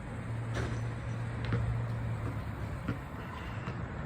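Steady low rumble of a motor vehicle engine, with a few faint clicks.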